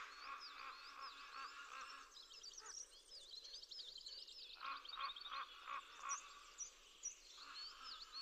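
Faint bird calls: many short, quick whistled chirps, with runs of lower rapid notes that come and go.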